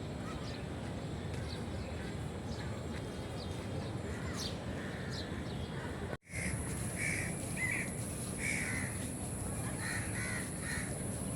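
Crows cawing repeatedly in short harsh calls after a brief dropout about six seconds in, with a steady high whine alongside. Before that, faint quick chirps of small birds over a constant low background noise.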